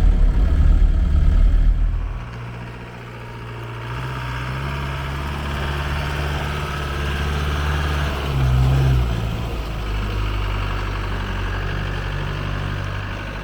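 Land Rover 200Tdi four-cylinder turbodiesel engine running steadily, with a brief rise in its note a little past the middle.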